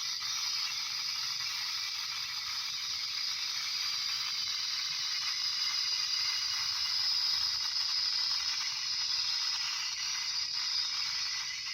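Capsule sound toy playing a recorded sound effect through its tiny speaker: a steady, hissy, rattling mechanical noise with no low end, starting abruptly.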